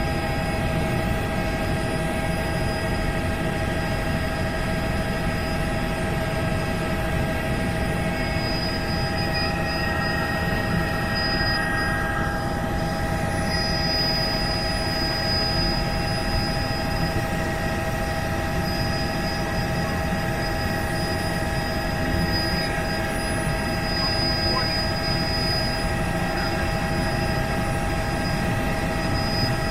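Helicopter in flight: a steady rush of rotor and engine noise with several constant whining tones over it, unchanging throughout.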